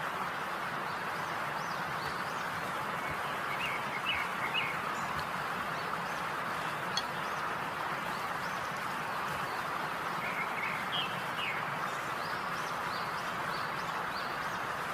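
Birds chirping in short bursts, about three to four seconds in and again around ten to eleven seconds, over a steady hiss.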